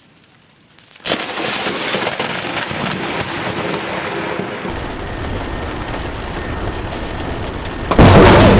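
Thunderstorm noise: after a second of quiet, a sudden loud onset about a second in, then several seconds of steady rushing rain and thunder. Near the end a much louder sound with a steady low hum begins.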